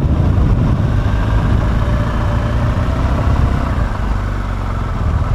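Engine of a BMW R1200 GS boxer-twin motorcycle running at low speed, a steady low rumble that eases slightly about four seconds in.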